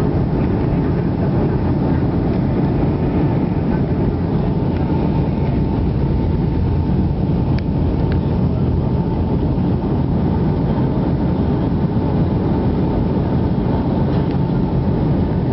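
Steady cabin noise inside a Boeing 757 airliner: the engines and the rush of air heard as an even low rumble, without swells or breaks.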